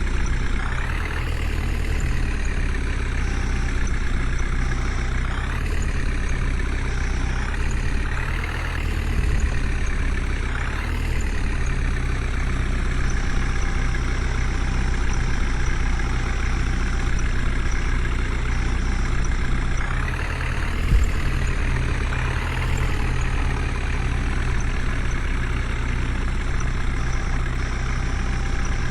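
Heavy diesel engine running steadily, revving up briefly every few seconds.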